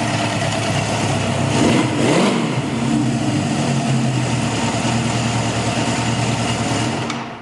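1975 Honda CB750's four-cylinder engine idling steadily through a non-stock exhaust, running smoothly and quietly. There is a brief swell in the sound about two seconds in. The engine is switched off near the end.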